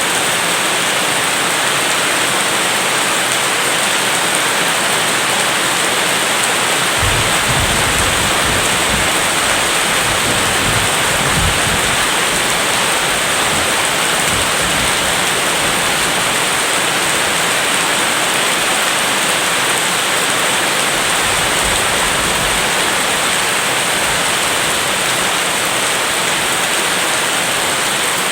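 Steady heavy rain, with low thunder rumbling from about a quarter of the way in and again about three quarters through.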